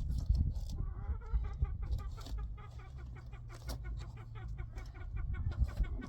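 Chickens clucking, with a steady low rumble underneath.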